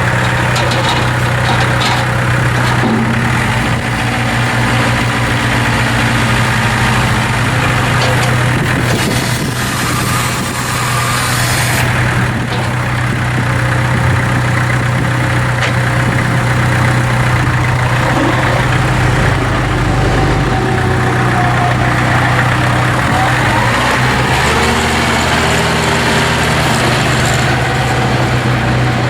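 Kubota L4300 tractor's four-cylinder diesel engine running steadily at idle, with a brief spell of added hiss about ten seconds in.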